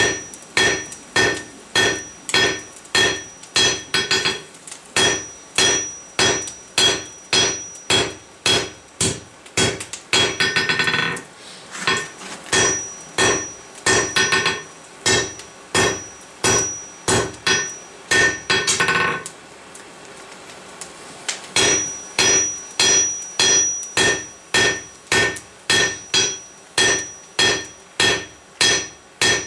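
Blacksmith's hammer striking hot steel on an anvil at about two blows a second, each blow ringing clearly, as the bar of a campfire poker is drawn out thinner. The hammering stops for about two seconds past the middle, then goes on at the same pace.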